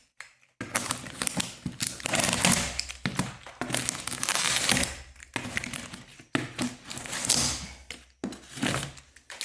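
A cardboard box being torn open and its packing handled: irregular bursts of tearing, crumpling and rustling, broken by brief pauses.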